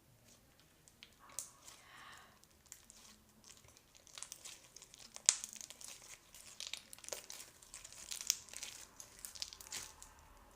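Slime being squeezed and stretched by hand, making irregular crackling and popping clicks with one sharper pop about five seconds in. It is an old, stiffened slime being softened by working clear glue into it.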